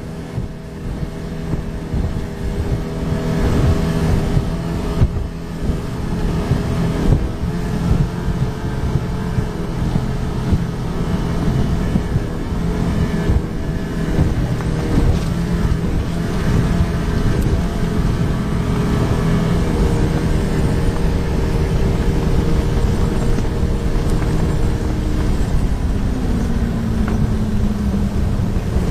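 Boat motor running at high speed, around 5,000 RPM, with the hull pounding through rough waves and wind adding a heavy rumble. Near the end the engine's pitch falls as it is throttled back.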